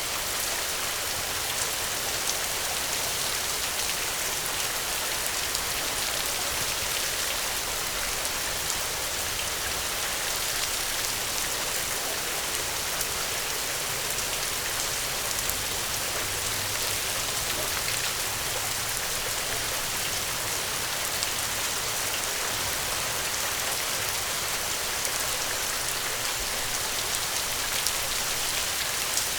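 Steady heavy rain, a dense even hiss of drops with a few sharper ticks, and a faint low rumble around the middle.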